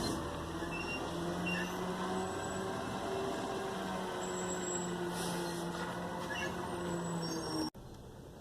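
Garbage truck running with a steady droning hum, which cuts off abruptly near the end.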